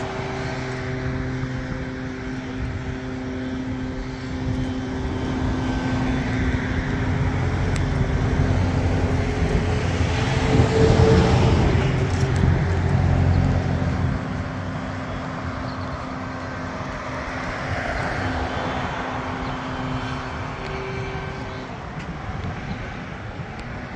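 Car engine running at a steady pace while driving, with road noise. The sound swells louder for a few seconds around the middle, then settles back.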